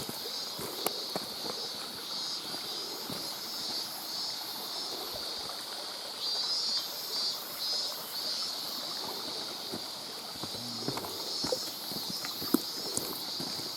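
Walking along a streamside mountain trail: running water and a steady high-pitched drone, with scattered clicks and knocks from footsteps on wet rock and the camera's loose monitor clattering.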